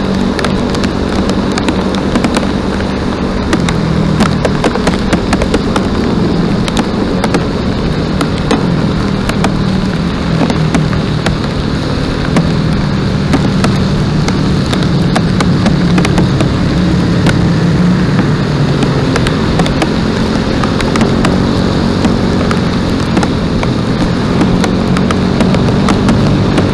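A steady engine-like hum runs throughout, overlaid by dense crackling noise.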